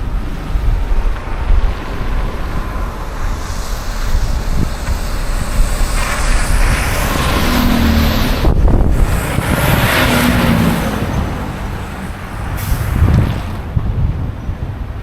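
City street traffic with a heavy vehicle passing, its hiss swelling and fading over several seconds, over a steady low rumble of wind on the microphone.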